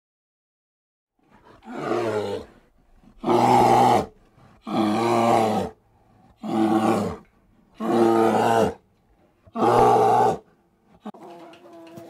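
Lion roaring: six low roars, each about a second long, coming about a second and a half apart.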